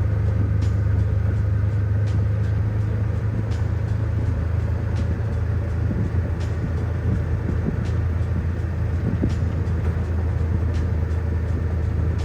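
Steady low engine rumble of a motor vehicle running or being ridden in.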